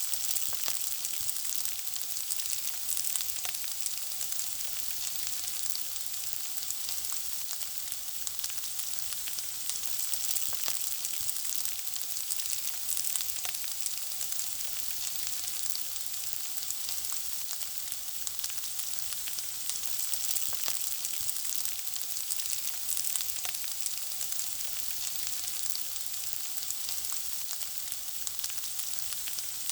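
Food frying in hot oil: a steady, high-pitched sizzle with many small crackles and pops scattered through it.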